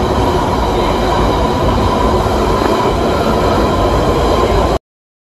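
Steady rumble and rattle of a train carriage in motion, heard from inside, with a faint thin whine over it. It cuts off suddenly near the end.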